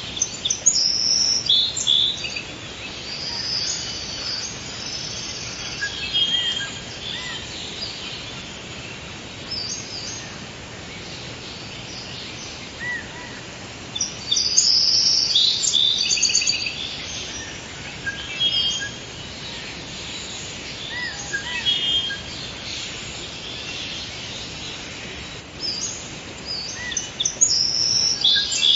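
Forest ambience: several songbirds chirping and trilling high over a steady background hiss, with busier bouts of song near the start, about halfway through and near the end.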